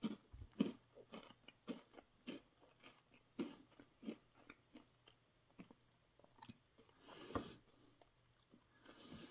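Crunchy Cheez-It crackers being chewed, faint irregular crunches: frequent in the first few seconds, then sparser.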